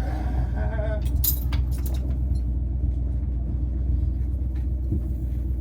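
Diesel truck engine, the Power Wagon's 5.9 New Holland combine engine, running at a steady idle. A few sharp clicks come about a second in.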